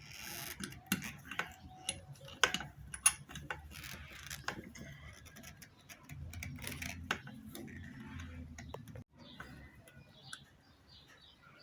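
Hand tools clicking and knocking against metal while working at tight, rusted screws on a centrifugal water pump's motor housing. A low rumble comes in from about six to nine seconds.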